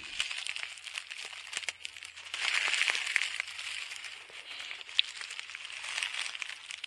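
Footsteps crunching through dry leaves and brush, with crackling rustles and small twig snaps as the walker moves along.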